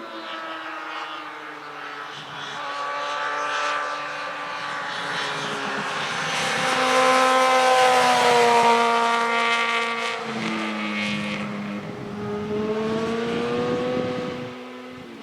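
Yamaha FZ6N's inline-four engine through a Two Brothers slip-on exhaust, revving up and down while riding. Its pitch rises and falls, and it is loudest around the middle.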